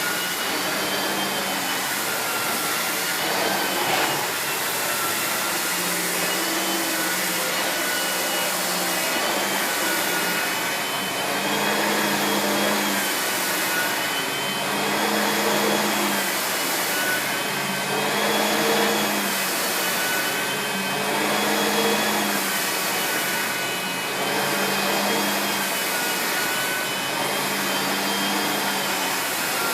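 Miele S8730 (C3 Complete) cylinder vacuum cleaner running with its turbo brush head on carpet. It gives a steady motor whine whose pitch wavers a little, and a lower hum swells and fades about every three seconds as the head is pushed back and forth.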